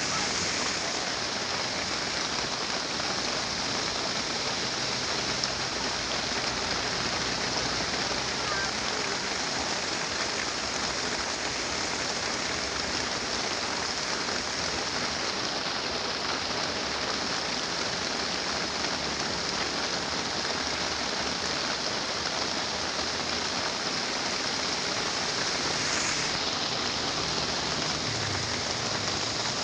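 Heavy rain pouring steadily on a moving truck, a dense even hiss. A faint low engine drone runs underneath.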